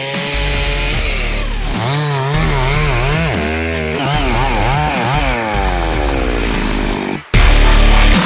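Two-stroke chainsaw running and being revved up and down repeatedly, as when cutting branches. About seven seconds in, the sound cuts abruptly to loud electronic dance music.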